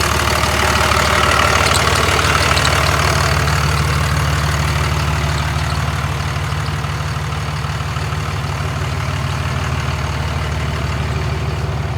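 24-valve Cummins diesel idling steadily, with a rushing hiss over it that is strongest in the first few seconds and then fades.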